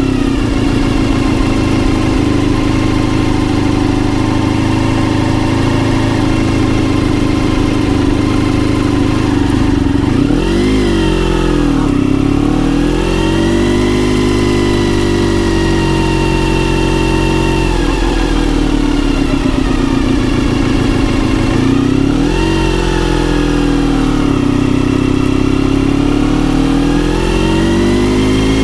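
Honda RVF400 NC35's gear-driven-cam, 360°-crank V4 through a TSR slip-on silencer, heard from the bike while riding. The engine note holds steady for about ten seconds. It then rises and falls several times with the throttle, with quick sharp swings in pitch about ten and twenty-two seconds in.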